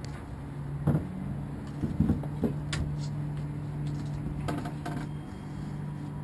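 Steady low hum of a boat motor running, with several sharp knocks and clicks scattered through it.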